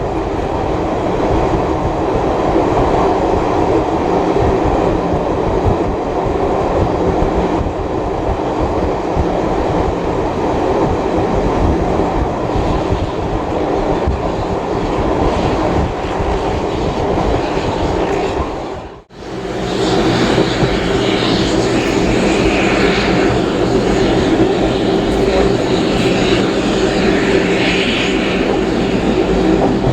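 Passenger train under way: a steady rumble of the carriage running on the rails. The sound cuts off abruptly about two-thirds of the way through and resumes at once, brighter and hissier.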